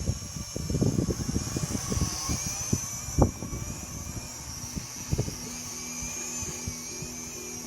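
Small Visuo toy quadcopter's motors and propellers give a steady, high-pitched whine that wavers as it flies. Gusts of wind rumble on the microphone during the first few seconds, with a sharp knock about three seconds in.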